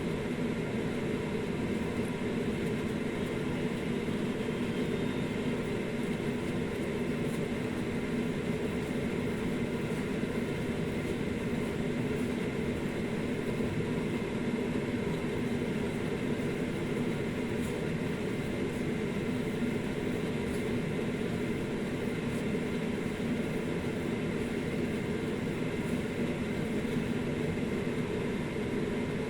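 Steady, even mechanical hum with no breaks or changes.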